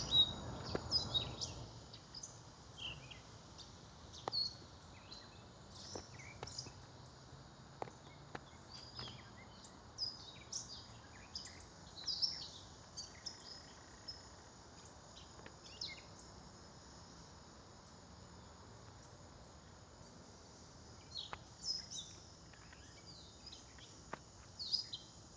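Backyard birds chirping and singing in short, high calls scattered throughout, over faint steady outdoor background noise.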